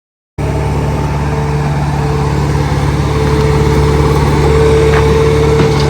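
Heavy-equipment engine running steadily at constant speed, cutting in suddenly just after the start.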